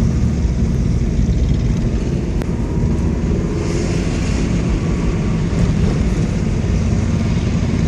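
Honda Shadow VT1100C motorcycle's V-twin engine running steadily.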